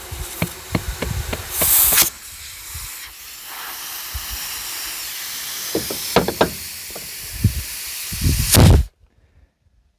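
Compressed air hissing steadily as a tire is inflated from an air line, with a louder burst of hiss about two seconds in and scattered knocks and clicks. It cuts off abruptly near the end.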